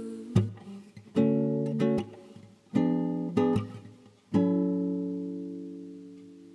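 Acoustic guitar strumming chords with no singing: about half a dozen short strums, then a last chord about four and a half seconds in that rings on and slowly fades.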